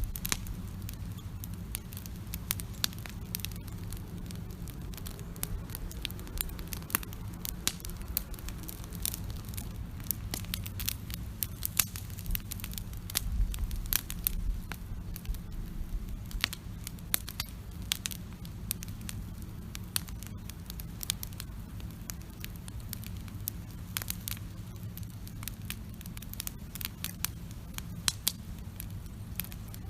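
Wood campfire crackling with many irregular sharp pops and snaps, over a steady low rumble.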